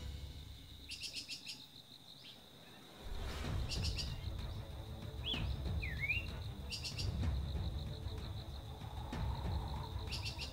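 Small birds calling outdoors: short bursts of rapid high chirps repeat about every three seconds, with a couple of quick whistled glides between them. A steady high insect-like whine runs underneath, and a low rumble like wind on the microphone comes in about three seconds in.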